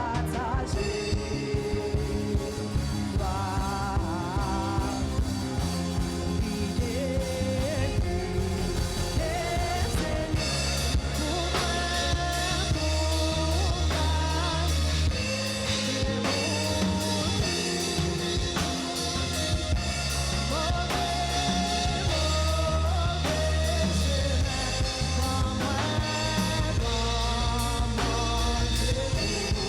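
Live church worship band playing a gospel song with singing over a drum kit, bass and keyboards; the band fills out about ten seconds in.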